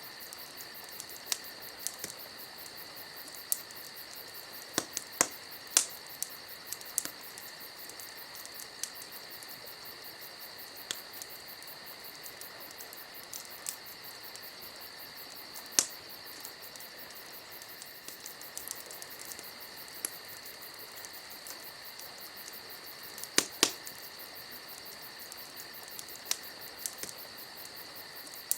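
Crickets chirping steadily and shrilly, with a campfire crackling: irregular sharp pops, a few louder snaps about five seconds in and again past twenty seconds.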